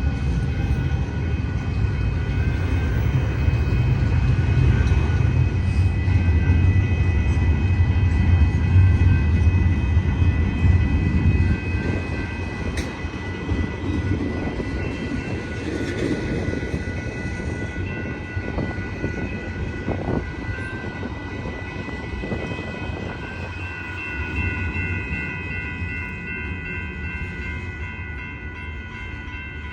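Train rolling past: a heavy low rumble that builds for about ten seconds and then slowly fades, with steady high-pitched tones held throughout.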